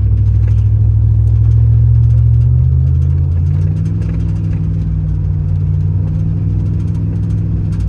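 Truck engine running hard under acceleration, its pitch rising over the first few seconds and then holding steady at higher revs: the rebuilt 4L60E automatic transmission is not shifting up out of second gear, so the engine stays wound up.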